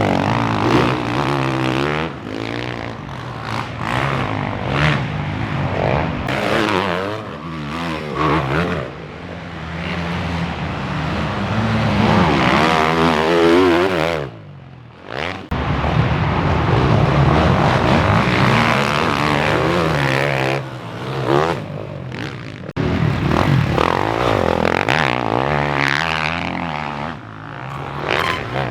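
Motocross dirt bikes racing, their engines revving up and down as they accelerate and pass. The sound drops out briefly about halfway through and changes abruptly again later on.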